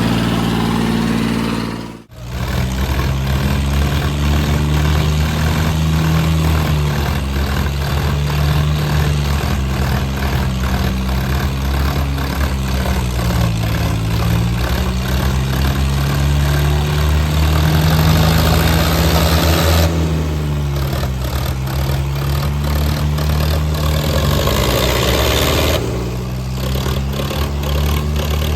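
Tractor diesel engine running loudly, its pitch slowly sagging and recovering. The sound drops out abruptly for a moment about two seconds in.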